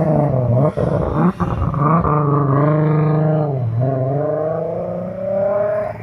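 Car engine revving and held at high revs, with brief dips in pitch a few times. A deeper drop a little over halfway through is followed by a slow climb back up, and the revs fall away at the end.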